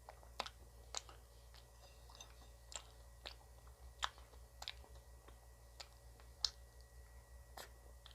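Ice cream being bitten and chewed, with irregular sharp crunches a second or so apart.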